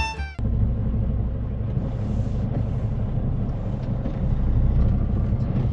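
Semi-truck's diesel engine running steadily with road rumble. A bluegrass music clip cuts off just after the start.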